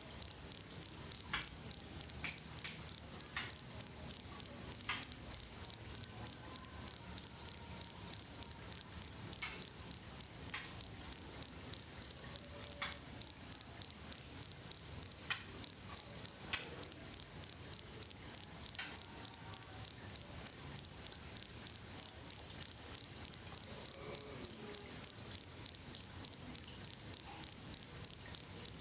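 A cricket chirping steadily, one high-pitched pulse about three times a second in an unbroken, even rhythm.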